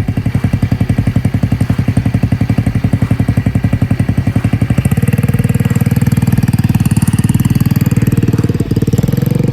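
Mini bike's small single-cylinder engine running with a rapid, even putter. About five seconds in it speeds up and gets louder as the throttle opens.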